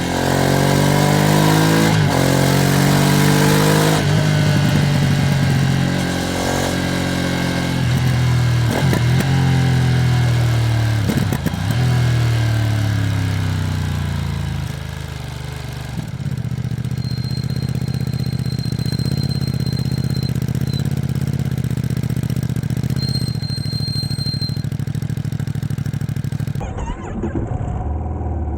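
Ducati Streetfighter V2S V-twin accelerating through the gears, its pitch climbing and then dropping sharply at each upshift about every two seconds, with wind rush. About halfway through it settles to a steadier, lower running note.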